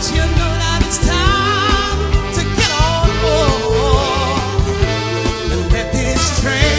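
Live band playing a soul-style song with a singer's voice, held notes with vibrato, over bass and drums.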